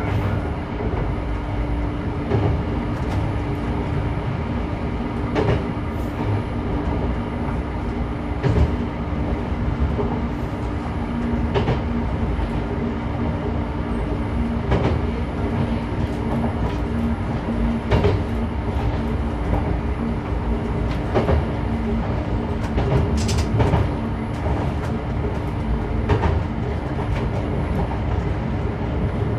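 Diesel railcar of the Hitachinaka Seaside Railway Minato Line running along the track: a steady engine and running hum, with the wheels clicking over rail joints every two to three seconds.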